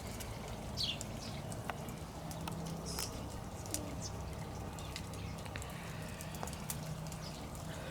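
Wood campfire crackling, with irregular sharp pops and snaps scattered throughout, over a steady low hum.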